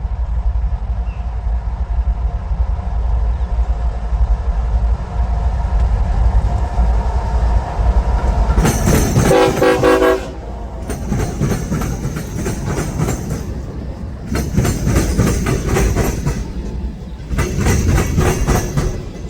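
Freight train with diesel locomotives running past, a steady low rumble at first. About nine seconds in, the locomotive horn starts sounding a series of loud long blasts with short breaks between them.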